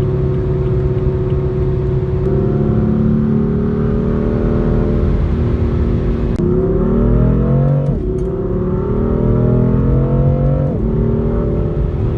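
Car engine running steadily, then accelerating hard: its pitch climbs and drops sharply at an upshift, twice in a row, about six and eight seconds in.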